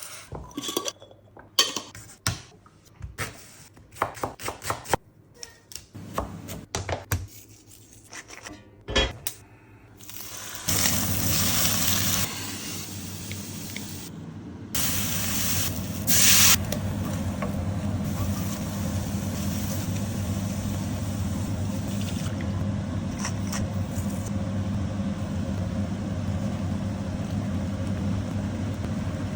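Scattered kitchen knocks and clatter of food preparation for about ten seconds, then a steady sizzle of food frying in a pan, which grows louder in steps a little after twelve and around fifteen seconds in.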